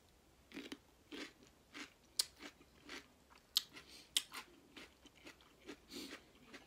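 Close-up chewing of a bitten-off piece of fresh raw cucumber: a run of irregular, crisp crunches, the sharpest a couple of seconds in and again around the middle.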